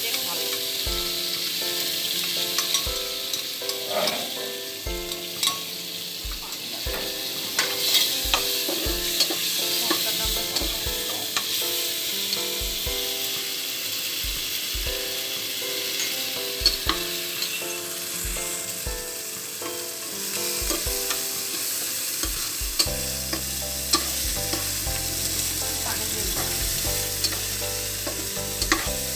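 Chopped onions sizzling as they fry in hot oil in a pan, with a spatula stirring and scraping against the pan in scattered clicks. Soft background music with changing notes runs underneath.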